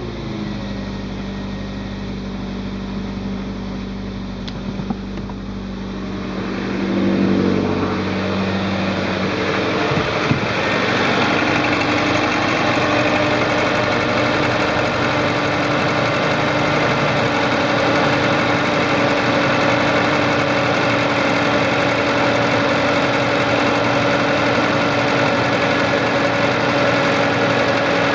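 Toyota AE86's 4A-GEU 1.6-litre twin-cam four-cylinder engine running steadily at idle, then rising to a higher, steady engine speed about seven seconds in and holding there, a little louder.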